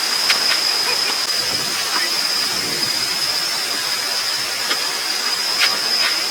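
Strong wind rushing over the microphone, with a handful of sharp tennis ball hits and bounces on the court scattered through it, and a steady high-pitched whine underneath.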